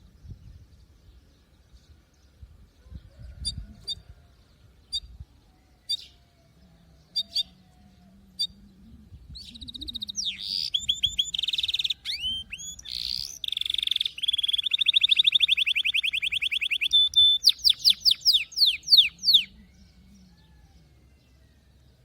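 Domestic canary: a few short single chirps about a second apart, then a loud song of fast rolling trills starting about halfway in, ending in a run of quick sweeping notes and stopping a couple of seconds before the end.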